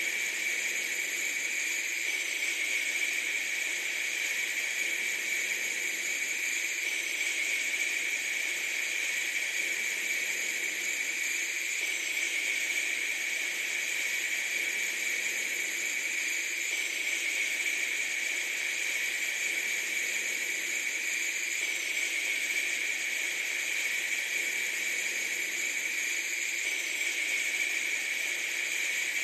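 Steady, even hiss, highest in pitch rather than deep, with a faint change that recurs about every five seconds.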